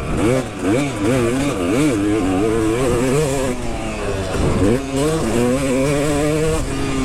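Dirt bike engine revving up and down under riding, its pitch rising and falling with each burst of throttle, then holding steady for a moment before dropping near the end.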